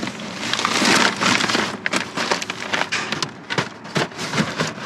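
Plastic bags and food packages rustling and crinkling as they are handled, with many small clicks and knocks as items are set down.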